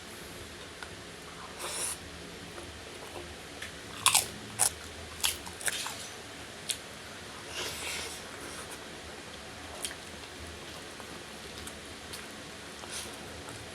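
Close-up eating sounds of someone biting and chewing giant gourami fish, with crunchy bites. A cluster of sharp crunches comes about four to six seconds in, with softer chewing around it.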